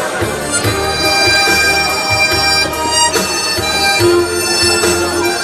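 Harmonica playing a melody of held notes over a recorded backing track with a steady bass line.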